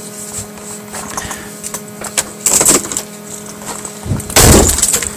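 A car hood being shut on a 1998 Oldsmobile LSS: a loud, heavy thump about four seconds in, over a steady low hum.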